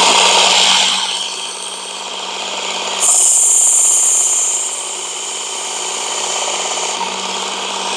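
Work Sharp Ken Onion Edition electric belt sharpener running with a steady motor hum while a knife blade is drawn across the abrasive belt. The grinding hiss swells twice, once at the start and again about three seconds in, as the blade makes its passes.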